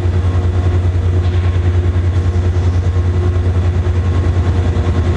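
Diesel locomotive engine idling: a loud, steady low hum that pulses several times a second.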